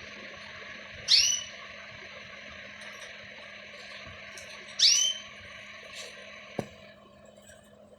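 A pet bird calling: two short, loud calls, each sliding down in pitch, about four seconds apart, over a steady background hiss. A single sharp click comes near the end.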